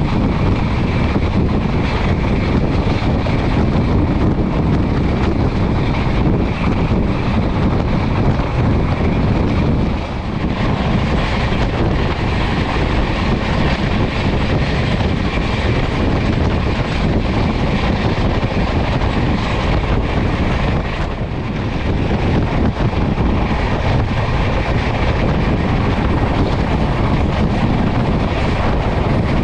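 Passenger train running at speed: a steady loud rumble and rush of wheels and air, dipping briefly twice.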